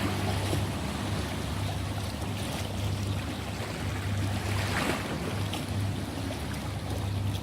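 Ocean waves washing, with one wave breaking louder about halfway through, over a steady low hum.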